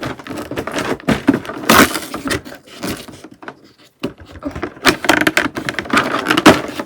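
Packaging rustling and crinkling by hand, with scattered clicks and taps, as a small item is worked out of an advent calendar compartment; it pauses briefly midway, then starts again.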